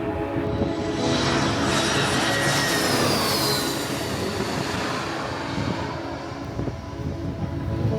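Jet airliner passing close overhead: a loud engine rush that swells about a second in, with a whine that falls in pitch as it goes by, then fades.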